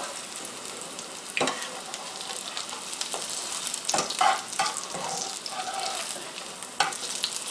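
Butternut squash fritters sizzling steadily in hot grapeseed oil in a frying pan. A metal spatula and fork scrape and tap against the pan a handful of times as the fritters are turned.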